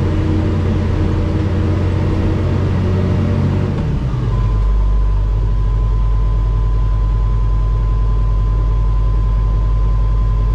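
Komatsu D65 bulldozer's diesel engine running steadily; about four seconds in its note drops lower and a steady high whine comes in with it.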